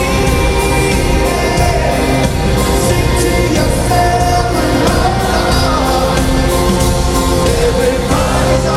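Live rock band playing a song at full volume, with sustained choir-like singing over the band.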